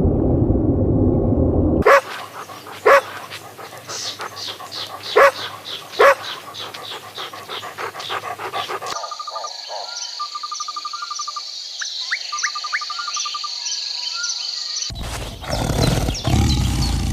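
A dog barking four times, single loud barks a second or two apart, with small birds chirping behind. Then a separate recording of high chirps and quick trills.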